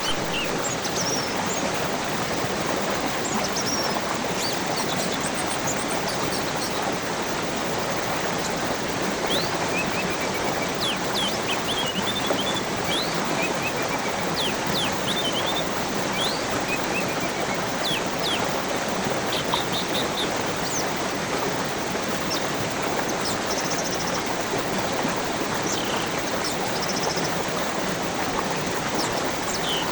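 Steady rushing of flowing water with birds chirping and whistling over it in short, scattered calls, most of them about a third to two thirds of the way through.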